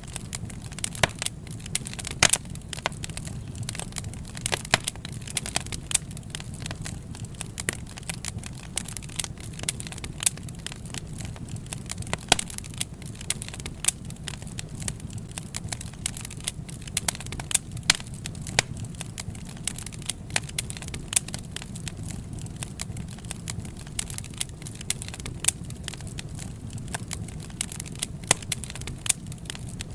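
Wood fire burning with a steady low rumble and frequent irregular crackles and sharp pops.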